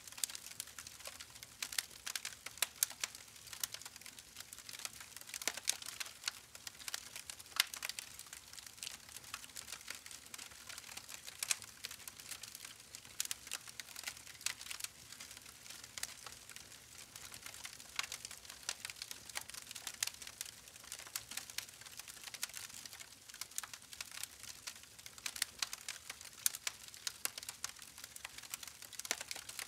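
Campfire burning with constant irregular crackling and small sharp pops from the wood.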